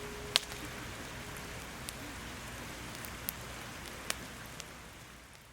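Steady rain with scattered louder drops striking a surface, fading out near the end.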